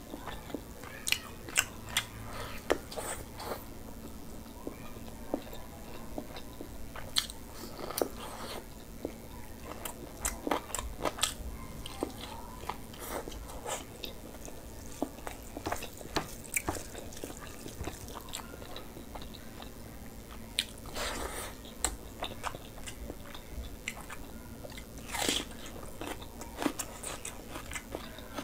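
A person chewing and biting food close to the microphone, with irregular sharp crunches and clicks.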